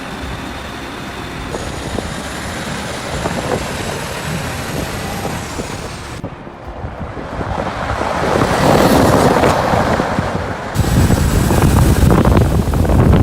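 Heavy truck running with road noise, changing abruptly several times and growing much louder in the second half, ending in a heavy low rumble.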